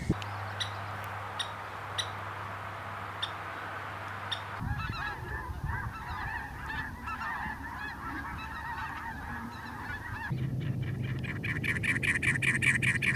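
Birds calling in three abruptly changing stretches. First come sharp ticks about every half second over a low hum. Then, about four and a half seconds in, busy chattering calls begin. Near the end they give way to fast, evenly repeated calls.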